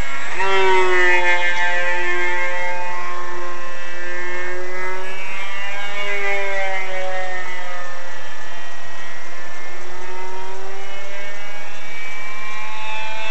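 Electric RC plane's brushless motor (Emax GT2820) spinning an APC 8x8 propeller in flight, a loud whine whose pitch slides down and up several times as the plane makes fast passes.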